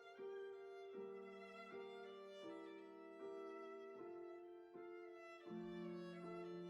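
Slow violin music: a line of held bowed notes changing about every three-quarters of a second, with lower sustained notes joining underneath about a second in and again near the end.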